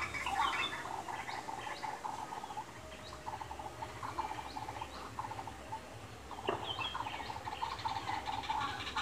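Several small birds chirping and chattering together: many short, overlapping calls and quick trilled notes, with a sharp call about six and a half seconds in.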